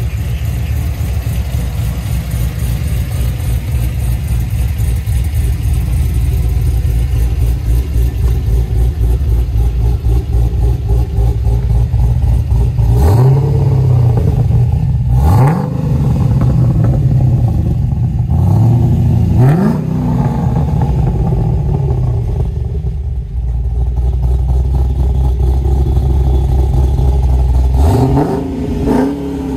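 Cammed and tuned 6.2-litre LS3 V8 of a 2018 Holden Commodore VF2 SS idling with a choppy, uneven lope, then revved in a run of quick throttle blips from about halfway through, with one more blip near the end.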